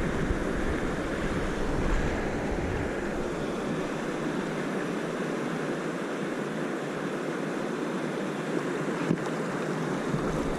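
River water rushing steadily over rocks. Wind rumbles on the microphone and fades about three seconds in.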